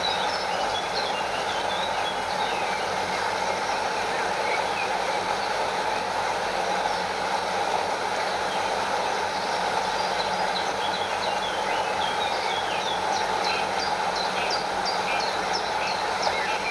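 Stream water flowing and lapping, with a small waterfall cascading, a steady even rush. Short high chirps are scattered over it, thickest near the end.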